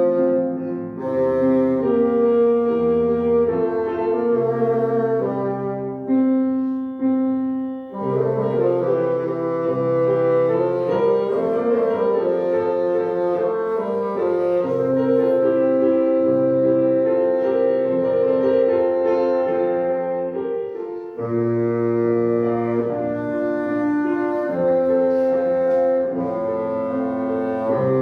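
A bassoon playing a sustained classical melody, with piano accompaniment.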